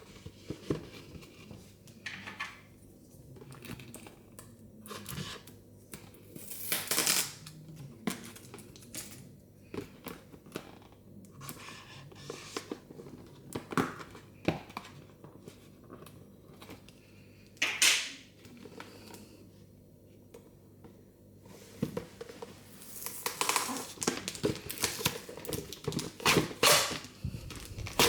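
Hands unwrapping Mini Brands surprise balls: plastic wrappers crinkling and tearing, with scattered clicks and taps of small plastic pieces. The rustling comes in separate short bursts and gets busier near the end.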